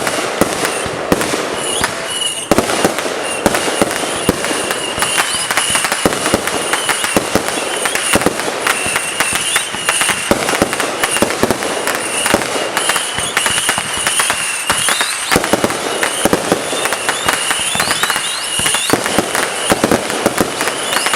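Fireworks going off in a rapid, unbroken barrage of pops and crackles, with a high wavering whistle over much of it.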